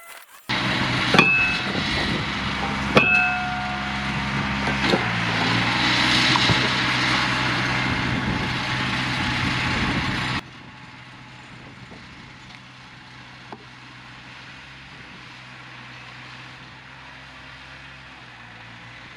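Tractor engine running steadily, with two sharp metallic clanks that ring briefly, and a shift in the engine note about five seconds in. About ten seconds in, the sound drops abruptly to a quieter, steady engine hum.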